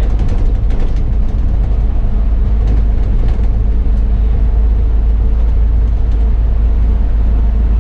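Bus engine running with a steady, low drone and road noise, heard from inside the bus, with a few faint rattles.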